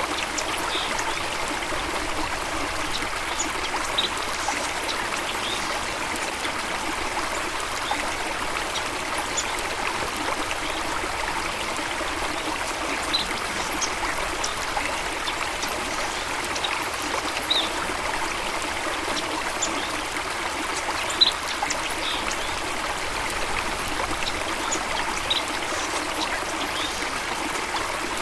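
Stream water rushing and trickling steadily, with a few short, high bird chirps scattered over it.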